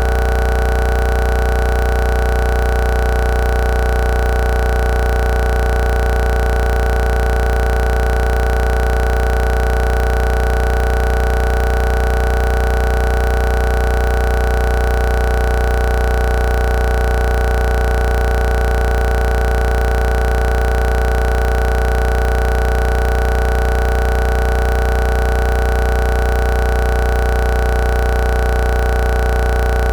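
A loud, perfectly steady electronic buzz with a strong low hum, unchanging throughout, like stuck or glitched audio.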